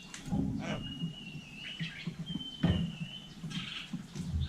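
Hill myna whistling: two long, steady high whistles, with a quick falling sweep between them and a short harsh call near the end.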